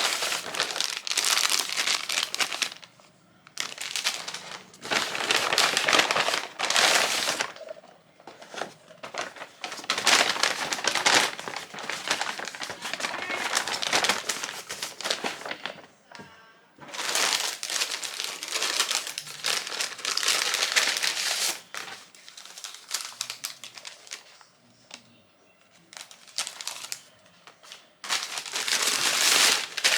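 Packaging being handled and crinkled, in repeated crackly bursts a few seconds long with short pauses between them.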